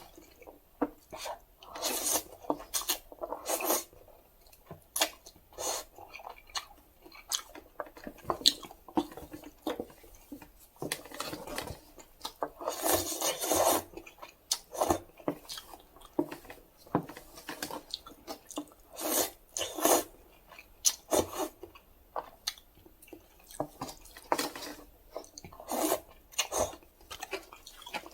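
Close-miked eating of instant cup noodles: wet chewing and mouth smacks, with a longer run of slurping about halfway through.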